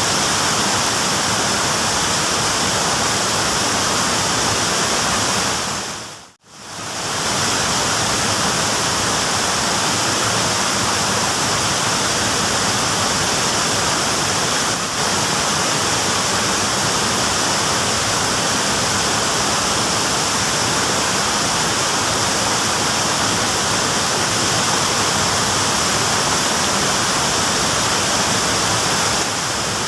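Steady rushing of flowing stream water, a loud even hiss, cutting out briefly about six seconds in.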